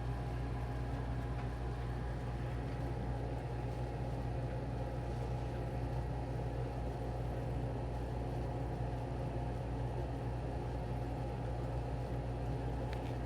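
Steady low mechanical hum with a faint steady higher tone above it, unchanging throughout.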